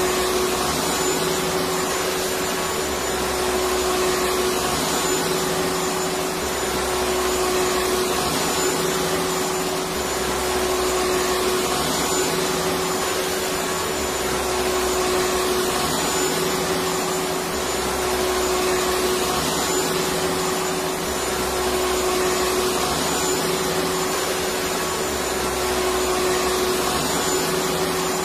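Electric vacuum cleaner running steadily: an even rushing hiss of air over a constant motor whine, with a low hum that swells and fades about every two and a half seconds.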